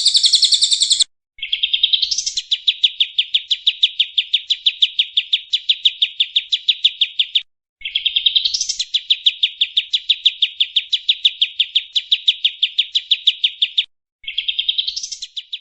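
Recorded songbird song from a bird-mastering (masteran) track: a short high chattering phrase, then a phrase that opens with a quick upward sweep and runs into a rapid, even trill, repeated three times. Each repeat breaks off abruptly after a short silent gap, as an edited loop does.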